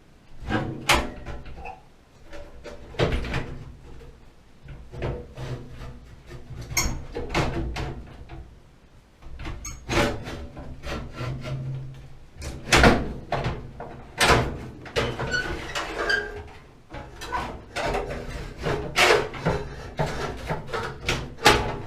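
Irregular knocks, clicks and clatter of hard parts being handled and worked on during a gas water heater repair, one after another every second or so.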